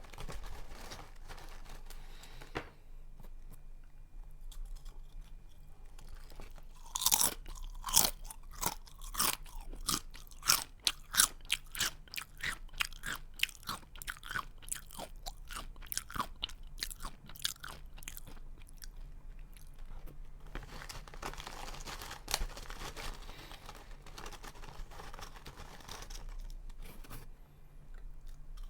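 Close-up chewing of a crunchy snack: soft chewing at first, then about thirteen seconds of rapid, sharp crunches, easing into softer, steadier chewing near the end.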